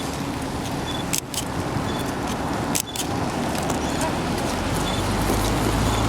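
City street traffic: a steady hiss of passing vehicles, with a low engine rumble growing louder from about four seconds in.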